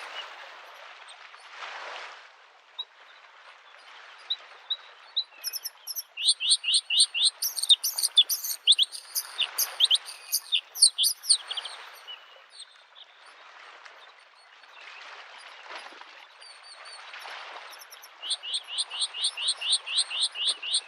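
Bluethroat singing: bursts of quick, varied high chirps and trills, then a fast run of repeated notes near the end. Underneath, small lake waves wash onto the shore every couple of seconds.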